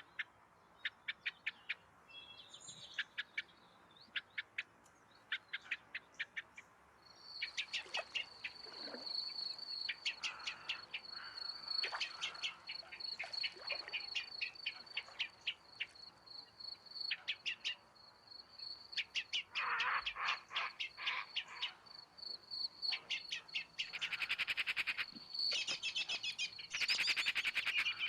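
Wild birds calling at a lagoon: repeated runs of quick ticking notes, over a steady high trill that sets in about a quarter of the way in and continues. The ticking grows denser and louder near the end.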